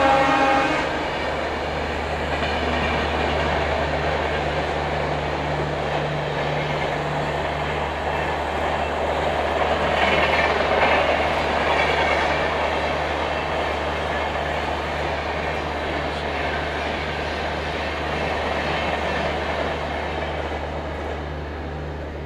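An express train's passenger coaches run through the station at speed without stopping, making a steady rolling rush of wheels on rail. It is loudest about ten seconds in and eases off near the end. The tail of the locomotive's horn dies away in the first second.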